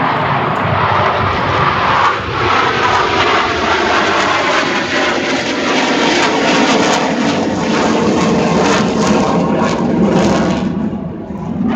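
Loud, steady engine noise of an aircraft flying past, easing off briefly near the end.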